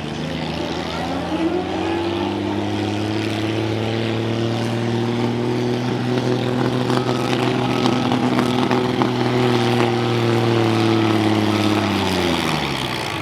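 A pulling truck or tractor's engine running at high, steady revs under full load as it drags the weight-transfer sled. It revs up about a second in and drops off near the end as the pull finishes. Faint repeated reversing beeps sound in the second half.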